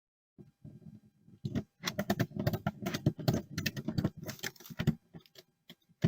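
A quick run of sharp clicks, knocks and rattles, densest for about three seconds, then trailing off into a few scattered knocks near the end.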